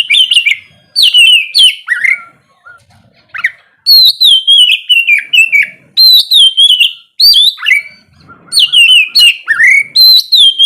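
Oriental magpie-robin (kacer) singing loudly: runs of clear whistled notes, many sliding down in pitch, delivered in quick bursts with short pauses between phrases.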